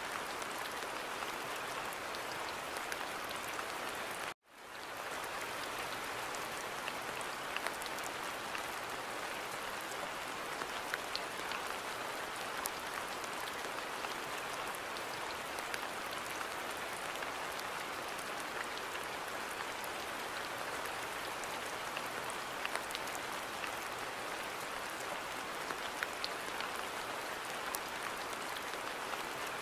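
Steady rain falling, an even hiss dotted with the ticks of individual drops. About four seconds in, the sound cuts out suddenly and fades back up within about a second, typical of the seam of a looped recording.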